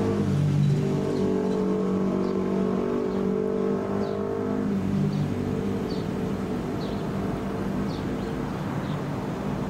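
A train at the station running with a steady, even engine hum; part of the hum drops away about halfway through.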